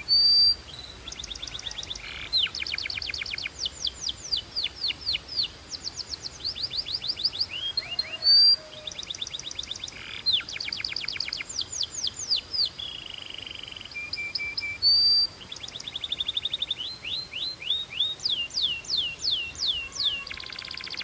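Belgian canary singing a continuous song: fast trills of rapidly repeated falling notes that change speed from phrase to phrase, with three short, loud, high steady whistles.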